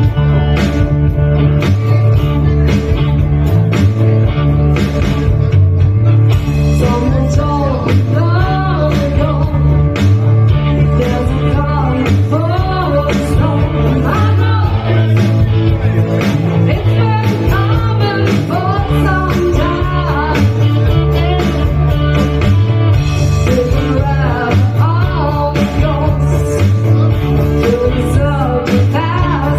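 Rock band playing a steady mid-tempo beat with guitar, bass and drums, and a voice singing, coming in about seven seconds in.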